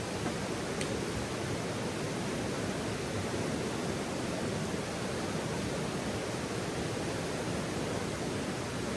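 Campfire ambience: a steady rushing hiss with a single faint snap from the fire about a second in.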